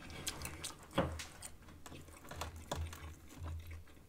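Close-miked chewing with wet mouth clicks and lip smacks, scattered a few to the second, the loudest about a second in.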